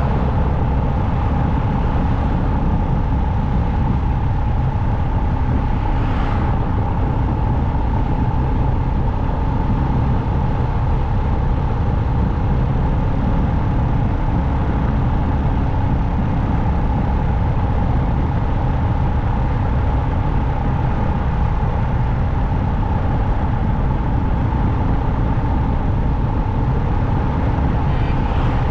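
Motorcycle riding at steady highway speed: heavy wind rush on the microphone with a steady drone held at one pitch, with a brief louder hiss about six seconds in.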